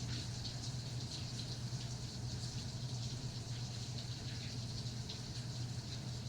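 Rain pattering steadily, many small drops ticking irregularly, over a steady low hum.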